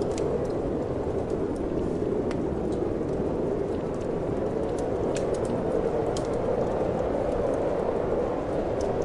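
Steady rushing wind mixed with a wood fire crackling in a fireplace: a constant low whoosh with scattered small sharp pops and snaps over it.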